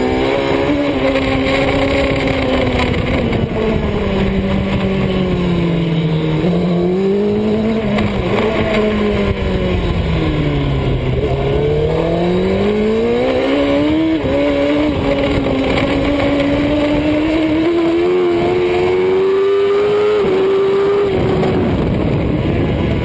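Superbike engine at speed, its note falling and rising with the throttle: it sinks to its lowest about eleven seconds in, then climbs steadily. A steady hiss of noise runs underneath, and the engine note drops away near the end.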